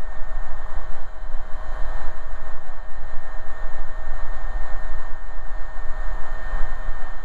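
Steady in-flight cabin noise of an AgustaWestland AW119 Koala helicopter with its single turboshaft engine: an even rushing noise over a heavy low rumble, with a constant whine.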